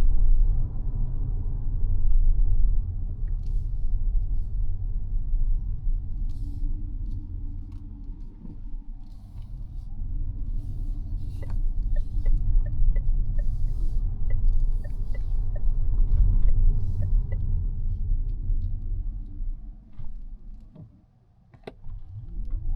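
Low road and tyre rumble inside the cabin of a moving Mazda 6e, with a run of light, evenly spaced ticks about twice a second in the middle, like a turn-signal indicator. Near the end the rumble drops almost to quiet, then comes back.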